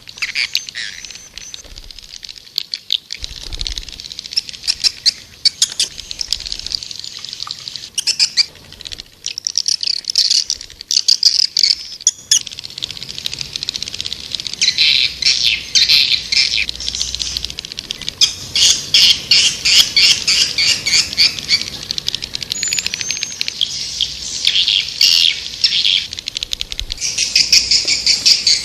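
White-nest swiftlet calls: dense, rapid trains of high chirping twitters, sparser at first and thicker from about halfway through. This is a swiftlet call-sound recording, played to lure swiftlets into a nesting house.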